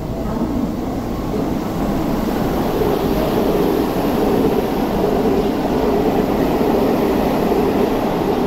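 Electric commuter train running through a station: a steady rumble, with a humming tone that grows stronger about three seconds in.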